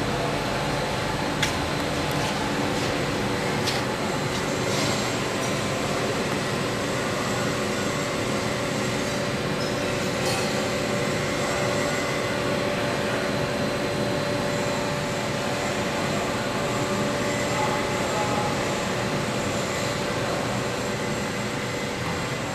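Danobat CNC high-speed blade tip grinding machine running steadily, spinning the master rotor at high speed for calibration: an even mechanical hum with several held tones and a few faint clicks in the first few seconds.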